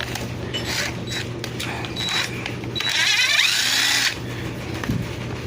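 A power drill-driver runs once for just over a second, its whine rising as it speeds up, amid a few small tool clicks: taking apart a two-stroke string trimmer engine to inspect the piston.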